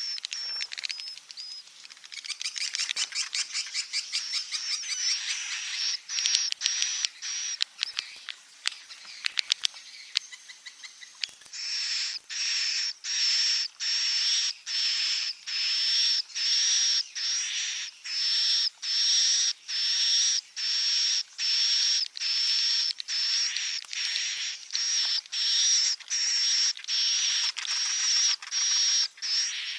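A recorded swiftlet lure call of the kind played to draw swiftlets to roost in a bird house. A dense, rapid clicking twitter runs for about the first eleven seconds, then gives way to a regular series of buzzy, high-pitched chirps at about two a second.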